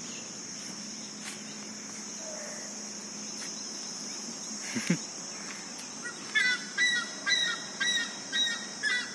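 Large birds calling in a rapid series of loud, repeated calls, about two a second, starting about six seconds in, over a steady high drone of insects. A short low sound stands out just before the five-second mark.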